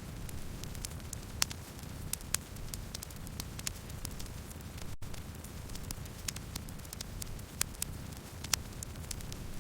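Wood campfire burning, with a steady low rumble of flames and irregular sharp crackles and pops from the burning wood.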